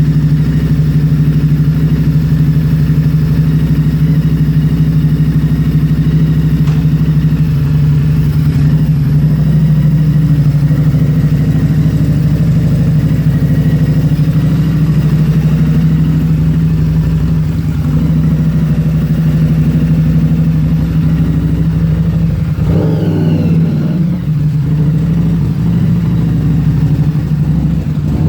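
Harley-Davidson Street 750 V-twin running through a custom aftermarket exhaust, idling with a steady, deep note. The note briefly changes about 23 seconds in.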